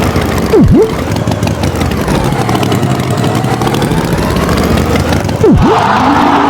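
Cartoon engine sound effect of a farm tractor running, with two quick swoops down and back up in pitch, and a steady pitched tone coming in near the end.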